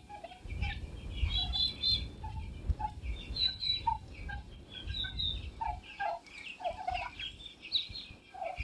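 Turkey poults peeping: many short, high peeps throughout, mixed with lower short calls. A low rumble underlies the first six seconds or so.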